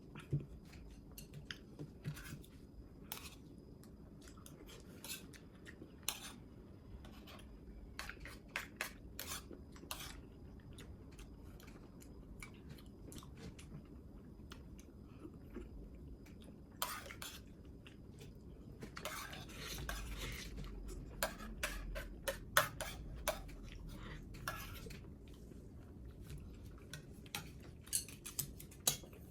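Eating sounds at a meal: utensils clicking and scraping against dishes in scattered taps, with chewing. The clatter is busiest about two-thirds of the way through.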